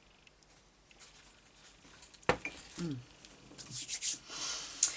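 Handling noise at a craft desk: a single sharp knock about two seconds in, then rustling of paper that grows louder toward the end.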